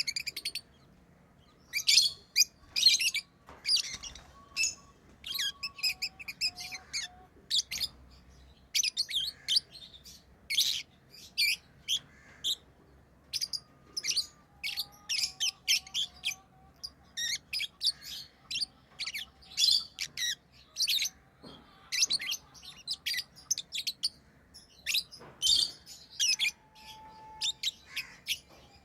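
Pet lovebirds chirping: a busy, continuous run of short, high, sharp chirps with brief gaps between them.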